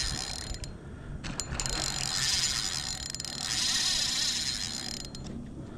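Spinning reel's drag clicking out line as a hooked redfish runs, in two long surges.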